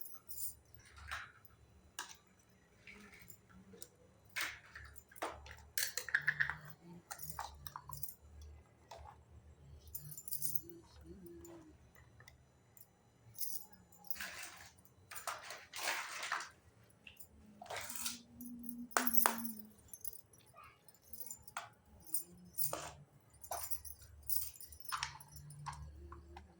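Pieces of a Hello Kitty mini toy kitchen set being handled: scattered small clicks, taps and clinks at irregular intervals, with a couple of brief rustles about halfway through.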